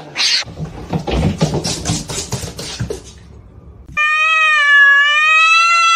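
A cat giving one long, drawn-out meow that starts about four seconds in and is held at a steady pitch. Before it come a few seconds of irregular scuffling noise.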